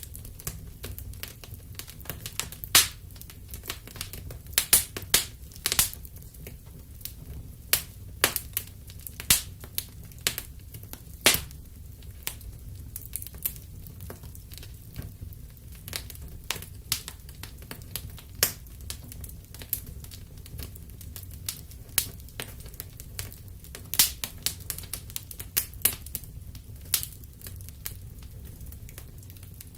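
Wood fire in a fireplace crackling: irregular sharp pops and snaps, a few loud ones, over a steady low rumble of the flames.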